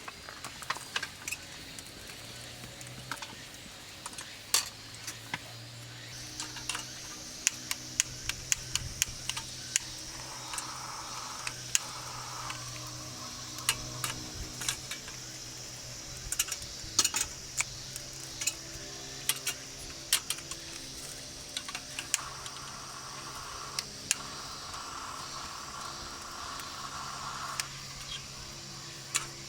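Yakitori grilling over a campfire: a steady sizzling hiss that gets louder about six seconds in, with many scattered sharp clicks and clinks.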